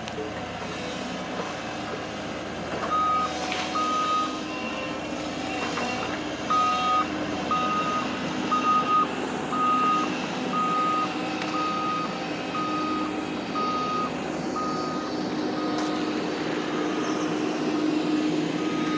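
A heavy vehicle's reversing alarm beeping about once a second, starting about three seconds in, over the steady running of its diesel engine.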